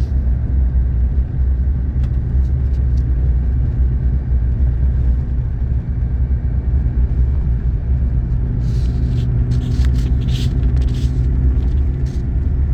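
Steady low rumble of a four-wheel-drive vehicle driving on a snow-covered mountain road, engine and tyre noise heard from inside the cabin. A few faint short clicks come near the end.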